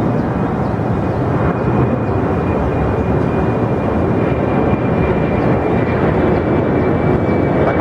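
Jet airliner engines running loud and steady, with a thin high whine that sinks slightly in pitch.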